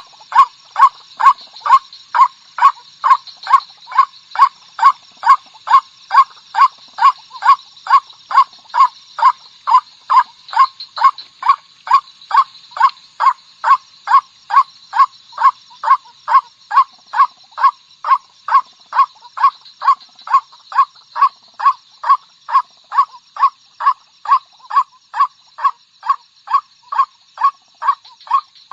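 Female white-breasted waterhen calling over and over, one short call a little under twice a second, steady and evenly spaced, over a faint steady high hiss.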